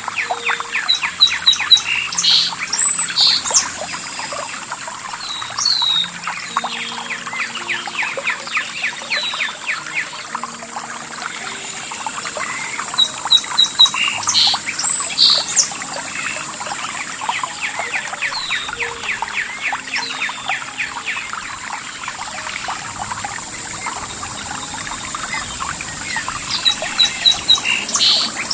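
Several birds chirping and calling over trickling, pouring water, with a steady high hiss in the background. The birdsong comes in livelier spells, about two seconds in, around the middle, and near the end.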